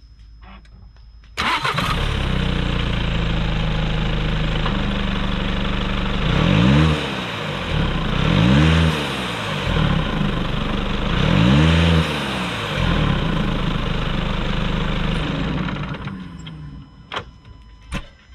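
2015 VW Golf SportWagen's 2.0-litre four-cylinder TDI turbodiesel starting about a second in, idling, then revved three times, each rev rising and falling in pitch, and shut off near the end. It breathes through an Injen cold air intake with a grommet pulled out to let more turbo spool noise through, which the owner found made no difference.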